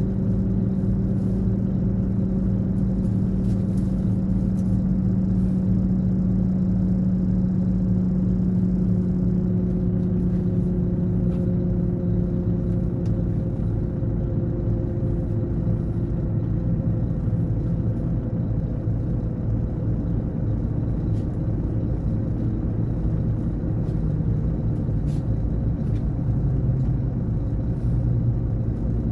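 Scania K420 coach engine running steadily under way, its note holding even with only slow, slight drifts in pitch.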